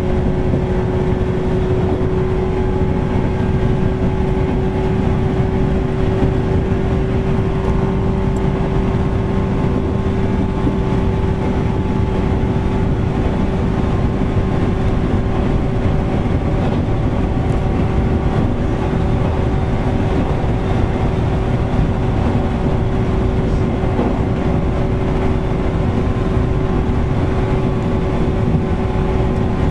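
Interior running sound of a 413 series electric multiple unit (KuMoHa 413 motor car) travelling at a steady speed: an even rumble of wheels on rail with a steady hum that does not change in pitch. The air conditioning is loud.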